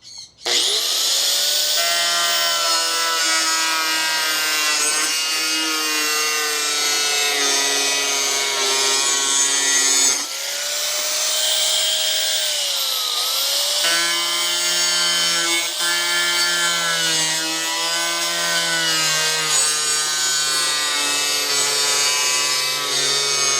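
Electric power tool cutting through a plastic 5-gallon bucket: the motor spins up with a rising whine about half a second in, then runs steadily with a sawing rasp, its pitch dipping briefly a couple of times as the blade loads up in the plastic.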